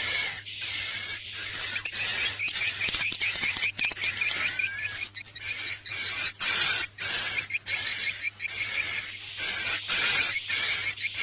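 Recorded swiftlet calls used as a lure for swiftlet farming: a dense, continuous twittering of high chirps over a steady high whistle, broken by many short gaps. It is an edited 'inap' roosting call mixed with 'akau' chirps, played to draw swiftlets in to roost and nest.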